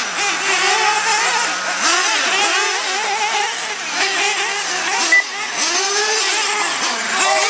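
Several radio-controlled monster trucks and truggies racing, their small engines revving up and down over one another in overlapping rising and falling whines. A brief sharp sound stands out about five seconds in.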